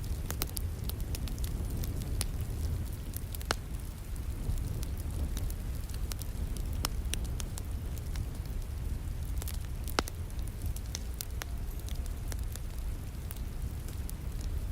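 Wood fire in a fireplace crackling, with frequent small sharp pops and a couple of louder snaps, over a steady low rain background.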